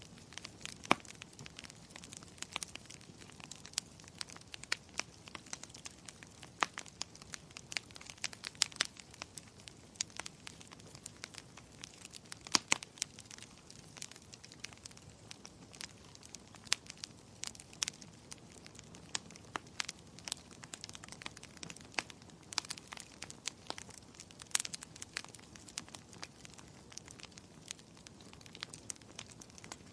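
Wood fire in a fireplace crackling: a dense, irregular stream of small snaps and pops over a soft hiss, with a few louder pops.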